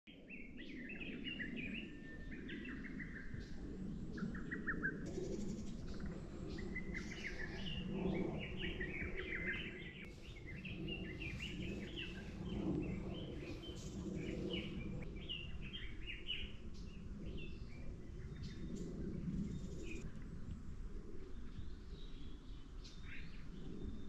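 Small birds chirping in quick, repeated short calls throughout, over a steady low background rumble.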